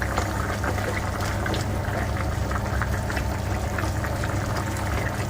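Pork humba sauce simmering and bubbling in a pot as it is reduced, with a steady stream of small pops over a low, steady hum.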